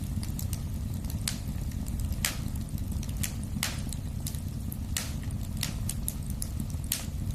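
Wood fire in a fireplace crackling: sharp pops come about a second apart over a steady low rumble of flames.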